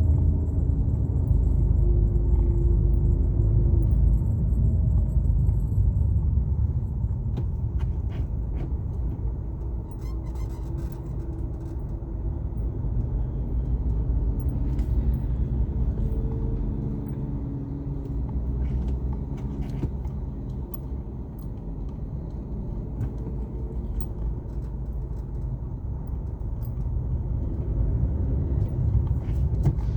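Car driving along a highway: a steady low rumble of road and engine noise, with a pitch that drifts a little as the speed changes, and scattered light rattling clicks.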